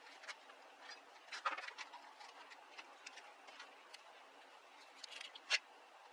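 Scattered light clicks and taps over a faint hiss, the sharpest about a second and a half in and again near the end.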